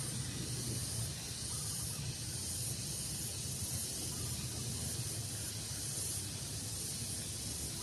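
Steady outdoor daytime ambience: an even, high-pitched hiss over a low rumble of breeze, with no distinct bird calls standing out.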